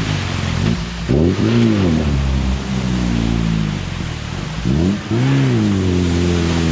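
UAZ off-road vehicle's engine running under load, revving up and dropping back twice, about a second in and again around five seconds in.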